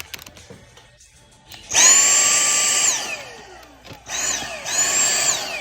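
Small handheld vacuum's motor whining as it sucks debris out of the intake ports. It runs for about a second, then twice more briefly, each time winding down with a falling whine.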